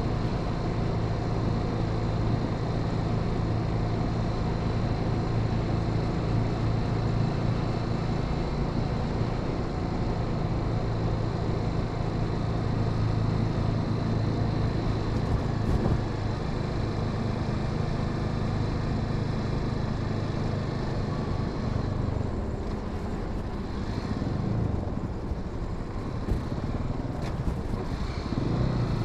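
Honda Sahara 300's single-cylinder engine running steadily under way, with road noise. About 22 seconds in the engine speed drops and wavers for several seconds as the throttle eases off, then picks back up near the end.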